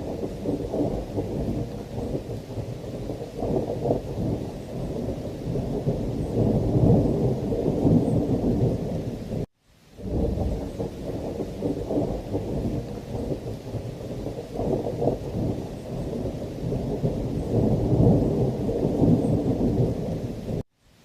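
Thunderstorm ambience: a continuous low rumble of rolling thunder over heavy rain, swelling and easing. It cuts out for a moment about nine and a half seconds in and again just before the end.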